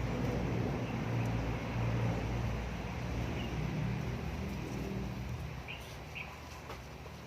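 A low, steady engine hum that slowly fades, with two short, faint bird chirps about six seconds in.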